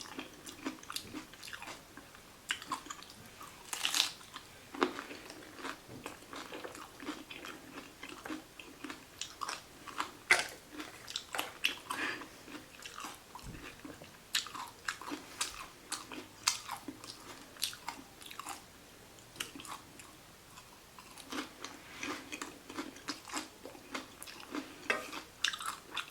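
A person chewing and biting into a taco of crisp lettuce, onion and vegetables close to the microphone: many small irregular crunches and wet mouth clicks.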